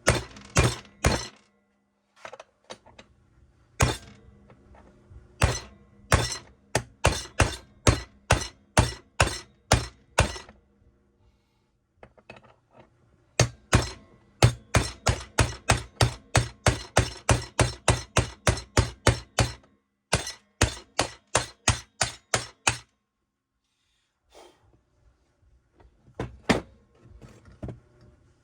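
Repeated sharp hammer blows driving a new crankshaft main bearing into a crankcase half, in runs of about two to three strikes a second with a few short pauses. The bearing is a tight fit, and the case springs and flexes on the bench under the blows.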